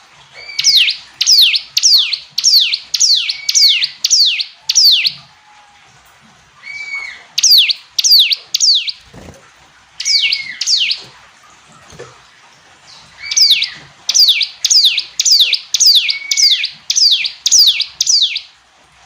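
Ciblek gunung, a prinia, singing: loud, sharp, quickly falling notes repeated about three a second in bouts of a few seconds, with short pauses and a few shorter curling notes between them.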